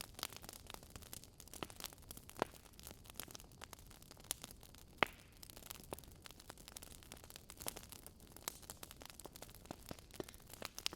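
Burning wood logs crackling: irregular small pops and snaps over a soft hiss, with a couple of sharper pops about two and a half and five seconds in.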